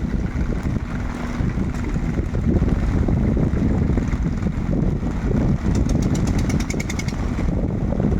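Longtail boat engine running with a rough, steady rumble. About six seconds in, a quick run of high, evenly spaced ticks lasts about a second and a half.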